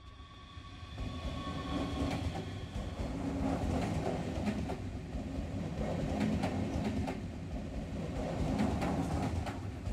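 Passenger train running along the track: a steady rumble with the repeated clatter of wheels over rail joints, building up over the first second.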